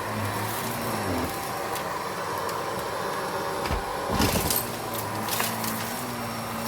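Vacuum cleaner running steadily, with a few knocks of the cleaner head bumping about a little past the middle.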